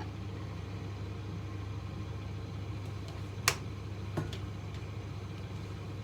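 Steady low mechanical hum with a sharp click about three and a half seconds in and a lighter knock shortly after.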